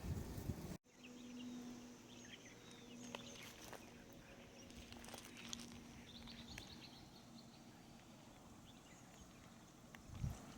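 Faint natural outdoor ambience with scattered small bird chirps and calls over a faint steady low hum. A few soft low thumps come at the start and again near the end, and the sound cuts off abruptly about a second in before the ambience resumes.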